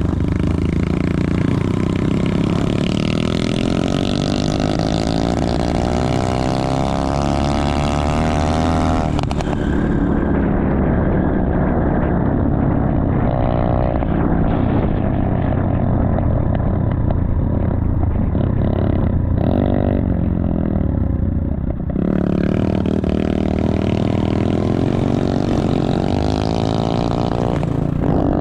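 Motorcycle engine running continuously, its pitch rising and falling as the throttle is opened and closed.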